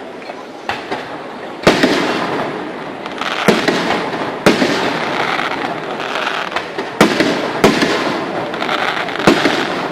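Fireworks going off: sharp bangs of bursting shells about once a second over continuous crackling, thickening into a dense barrage a couple of seconds in.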